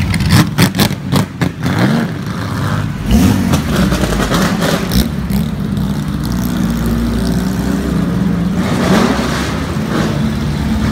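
Vintage sports racing car engines revving and running at low speed as several cars pass close by. Sharp throttle blips come in the first second and a half, the revs rise twice around two and three seconds in, and then a steady engine drone follows, its pitch wavering up and down.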